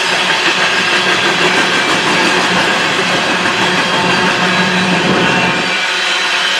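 Empty coal hopper train rolling past, a steady loud noise of freight cars and wheels on the rails; the lower rumble drops away near the end.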